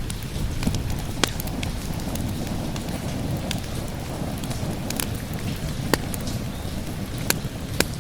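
Wood fire crackling, with sharp pops every second or so, over steady rain; a low thunder rumble is dying away at the start.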